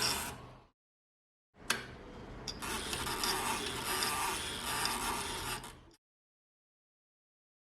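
Facit typewriter mechanism being worked by hand: a sharp click, then a few seconds of steady mechanical rattle with a couple of smaller clicks, cut off abruptly.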